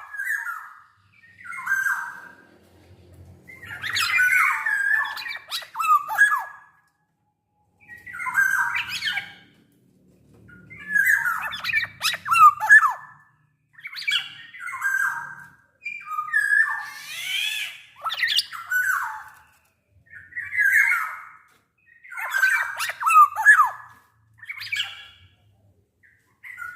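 Black-naped oriole singing loud, fluty whistled phrases that slide in pitch, one every couple of seconds with short pauses between. One harsher, rasping phrase comes about two-thirds of the way through.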